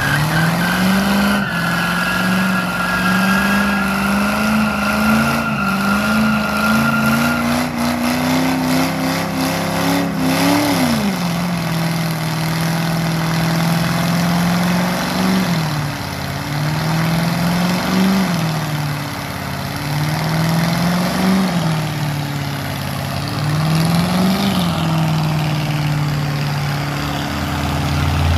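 Truck engine held at high revs during a burnout, its pitch climbing steadily for about ten seconds and then dropping sharply. It then settles and is blipped up again roughly every three seconds, with the spinning tyres hissing and squealing over it.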